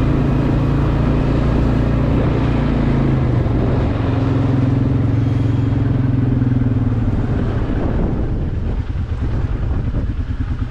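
ATV engine running while riding, its pitch shifting a few seconds in. Near the end it eases to a quieter, rapidly pulsing note.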